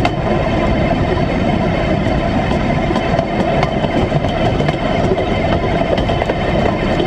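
1957 Series I Land Rover on flanged railway wheels running along the rails: steady engine and rolling noise, with a few faint clicks.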